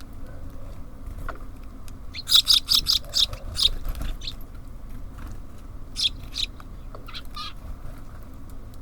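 Small songbirds chirping: a quick run of about eight short, high calls a couple of seconds in, then a few scattered calls later on.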